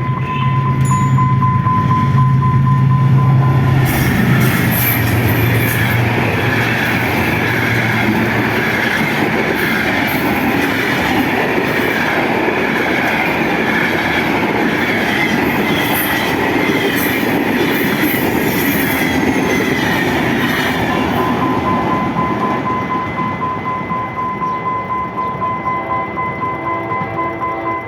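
Diesel-hauled trains passing at speed: a heavy low locomotive engine note in the first several seconds gives way to the dense rumble and rattle of passing carriages. Near the end, wheels clatter rhythmically over rail joints at about two beats a second.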